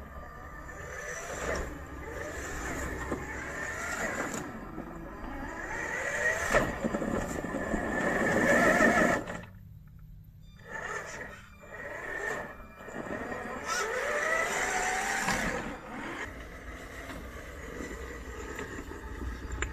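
Traxxas TRX-4 RC rock crawler's electric motor and geared drivetrain whining, rising and falling in pitch with the throttle, with clicks and knocks of the truck working over rocks. The motor stops for a moment about halfway through, then starts again.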